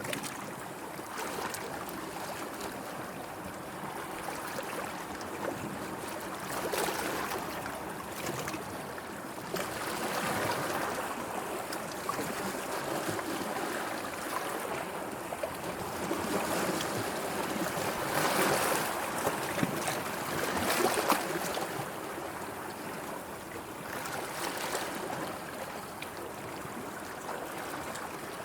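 Sea water washing and lapping. It swells in surges every few seconds, loudest in the second half, with a few small splashes.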